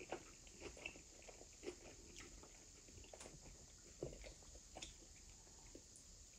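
Faint eating sounds: irregular soft mouth clicks and smacks of chewing.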